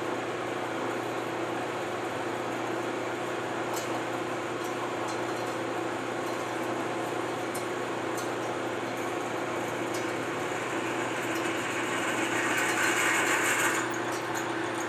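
Metal lathe running steadily with a constant hum while a 5/16 in drill bit in the tailstock cuts into a drill chuck held in the 3-jaw chuck. About twelve seconds in, the scraping hiss of the cut grows louder for a couple of seconds, then drops back.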